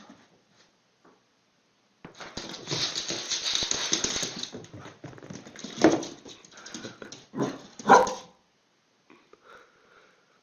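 A dog barking, with two loud barks a couple of seconds apart after a stretch of scuffling noise.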